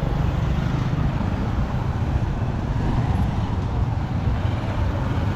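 Steady low rumble of a running motor vehicle engine close by, even throughout with no distinct knocks or passes.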